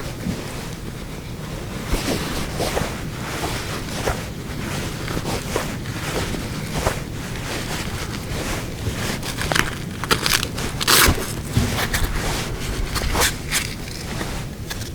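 Scattered scrapes and crackles of polo wraps being handled and fastened on a horse's leg, busiest about ten to eleven seconds in, over a steady rumble of wind on the microphone.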